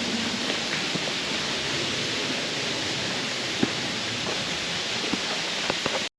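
Waterfall's rushing water, a steady hiss with a few faint clicks, cutting off suddenly near the end.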